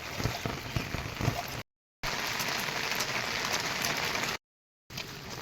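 Rain falling, a steady hiss, broken twice by a moment of dead silence.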